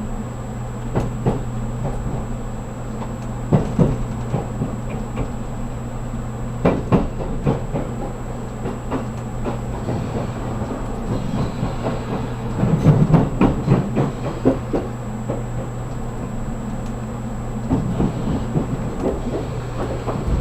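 Interior of a JR Kyushu 783 series express train car running on the line: a steady low rumble with wheels clicking over rail joints, and a quick run of knocks about two-thirds of the way through.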